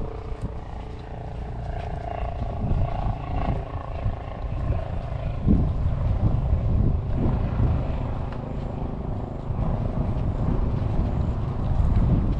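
Wind buffeting the microphone in an uneven rumble, with a faint steady drone in the first few seconds.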